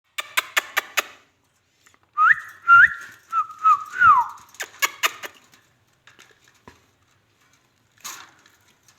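Ringneck parrot whistling and chirping: a quick string of sharp chirps, then several short whistled notes that slide up and a longer one that slides down, then more sharp chirps.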